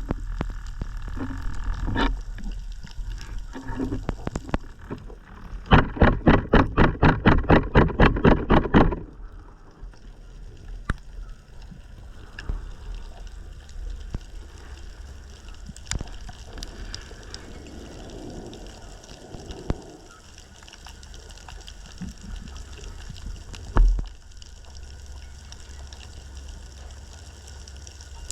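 Underwater sound picked up by a camera in its waterproof housing: a steady low wash of water with scattered sharp clicks. About six seconds in comes a loud run of rapid, evenly spaced pulses, about four a second, lasting some three seconds.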